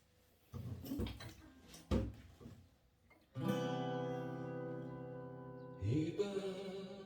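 Acoustic guitar: a few soft knocks, then about halfway in a chord is strummed and left to ring, followed by another strum near the end.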